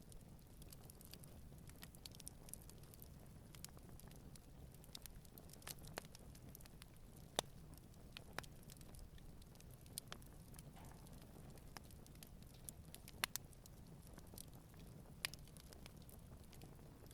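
Wood campfire burning gently, with irregular sharp crackles and pops over a low steady rumble; a few pops stand out louder, one about seven seconds in and one about thirteen seconds in.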